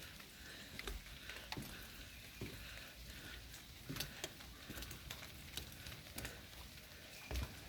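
Light rain pattering on garden foliage, a faint steady hiss with scattered sharp drips and taps.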